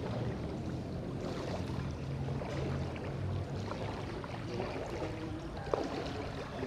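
Floodwater sloshing and splashing over a steady low hum, with a single sharp knock near the end.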